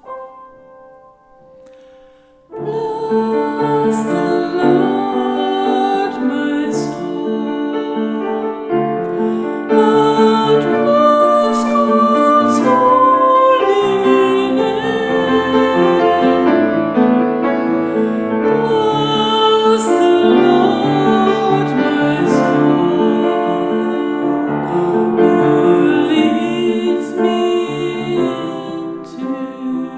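Piano music for a Taizé chant, starting about two and a half seconds in after a short quiet lull.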